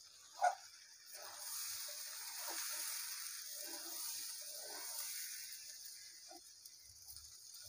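Rice and lentils frying in oil in a karahi, sizzling steadily from a little past a second in, while a metal spatula stirs and scrapes them against the pan. A sharp knock of the spatula on the pan comes about half a second in.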